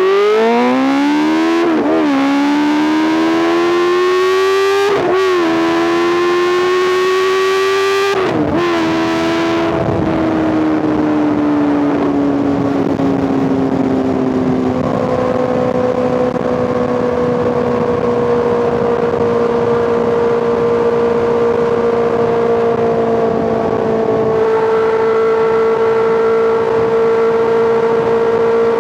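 Honda CBR650R's inline-four engine through an Arrow Pro Race titanium full exhaust, accelerating hard with the pitch climbing through three quick upshifts. After about ten seconds it eases off and settles into steady cruising.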